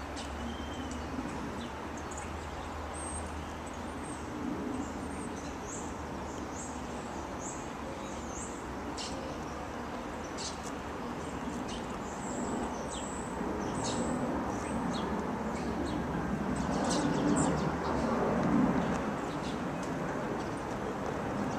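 Small songbirds chirping again and again in short, high notes over steady outdoor background noise. A louder low rumble swells up and fades about three-quarters of the way through.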